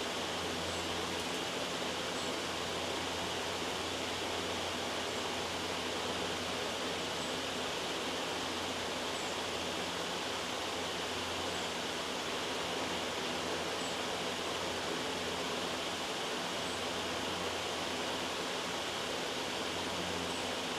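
Steady, loud white noise, an even hiss that holds unchanged throughout.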